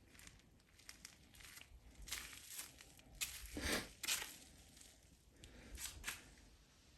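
Irregular rustling, crinkling and light clicks of handling noise, loudest in a burst about three and a half to four seconds in.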